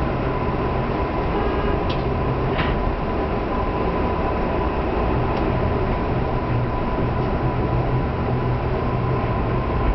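Tokyu Toyoko Line electric train running at low speed, heard from on board: a steady rumble of wheels on rail with a thin steady high tone, and two short clicks about two seconds in.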